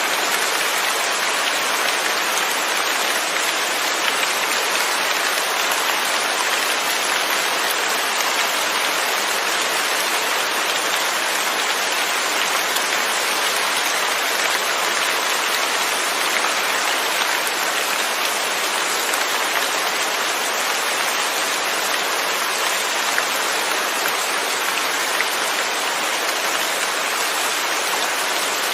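Steady rain falling, with no thunder: an even, unbroken hiss of many drops.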